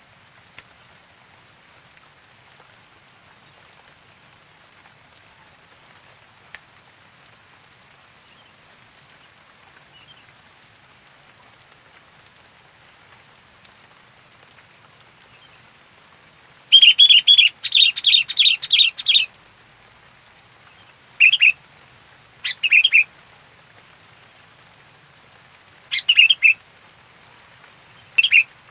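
Sooty-headed bulbul calling: after a long quiet stretch, a rapid run of bright chirping notes lasting about two seconds, then four short chirped phrases a few seconds apart.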